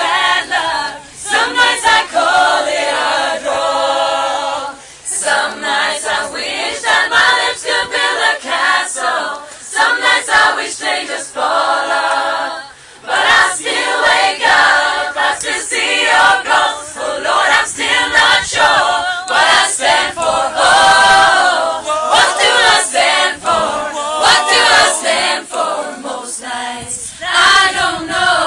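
A group of people singing together unaccompanied, as an informal choir of mixed voices.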